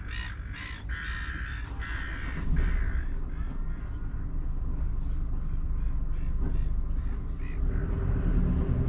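A crow cawing in a quick repeated series, loudest in the first three seconds and fainter after, over a steady low rumble.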